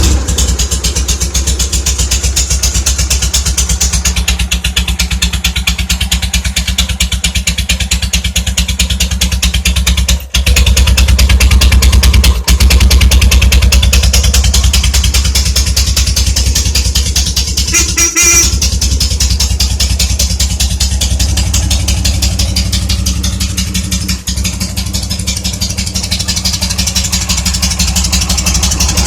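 Soviet K-750 motorcycle's side-valve flat-twin engine running steadily just after being started. It runs louder for a few seconds about ten seconds in, then settles back.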